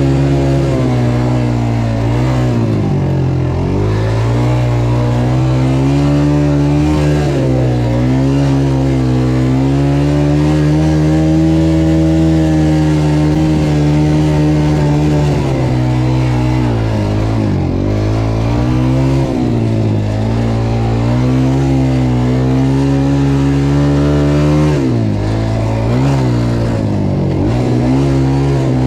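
Dirt bike engine running under way, its revs holding steady, then dropping and climbing again several times as the throttle is rolled off and back on.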